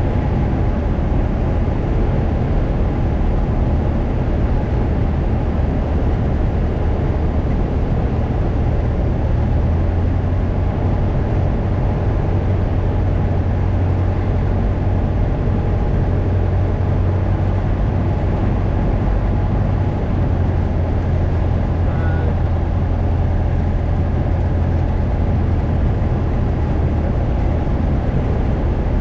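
Cessna 172's piston engine and propeller droning steadily in flight. The low hum shifts slightly about ten seconds in.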